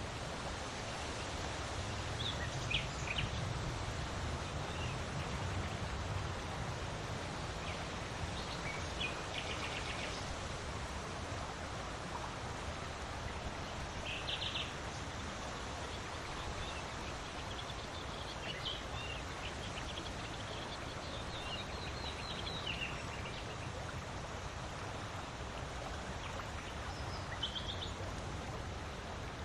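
Steady wind noise with a low rumble that swells for the first several seconds, and short bird chirps scattered through it.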